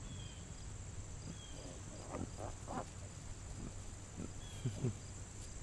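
A handful of faint, short grunts from young American Guinea Hog piglets, scattered through the middle and toward the end, over a steady high-pitched insect hum.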